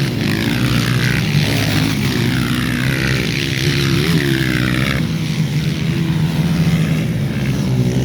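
Several racing motorcycle engines running together, their whine repeatedly falling in pitch as they pass or ease off, over a steady low engine drone.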